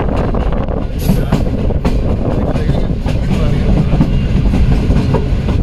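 Passenger train running, heard from an open coach doorway: a loud, steady rumble of wheels on the rails with quick, irregular clicks over the rail joints.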